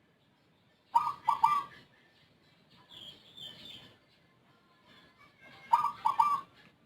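Zebra dove (perkutut) cooing: a short phrase of three quick notes about a second in, repeated near the end, in an unusual voice unlike the usual local or Bangkok perkutut song. Fainter, higher chirps come in between.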